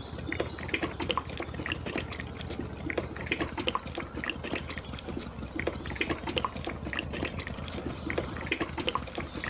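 Liquid splashing and gurgling in quick irregular blips over a steady low hum of a small motor.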